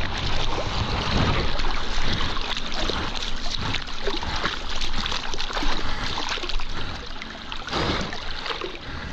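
Water splashing and sloshing close to the microphone: a dense rushing noise full of small splashes, easing a little near the end.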